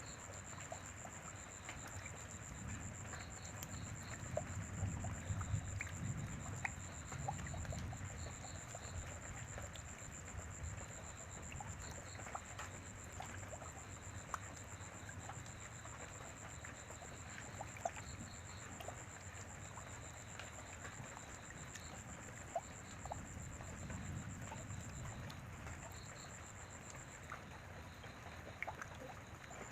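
Steady rain with scattered drips, over a thin, steady high-pitched tone. A soft low rumble swells twice, about five seconds in and again near the end.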